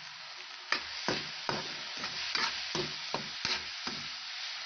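Tomato and shredded tuna sauce sizzling in oil in a pan, with a utensil stirring and scraping the pan. The stirring strokes start a little under a second in and come about two to three times a second.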